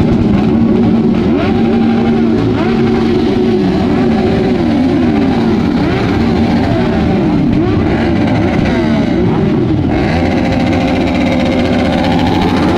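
Many motorcycle engines running together, several revving up and down in overlapping rising and falling notes over one steady engine note.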